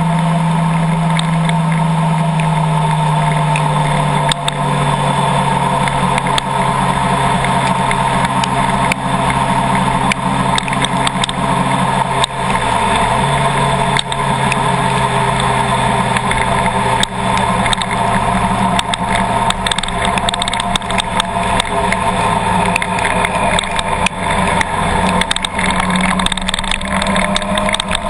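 Car engine running steadily, its pitch dropping about four seconds in and dipping briefly near the middle, with many scattered sharp ticks over it.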